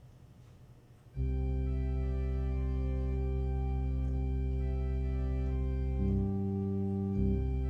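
An organ begins about a second in, holding full sustained chords with a deep bass, and moves to new chords near the end.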